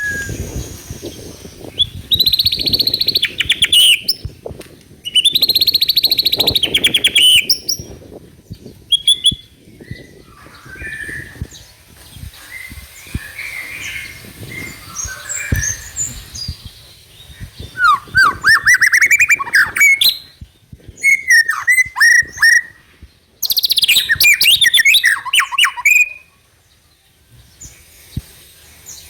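Juvenile white-rumped shama (murai batu trotol) singing: about five loud bursts of rapid, varied chattering and whistled notes, each two to three seconds long, with softer calls between them.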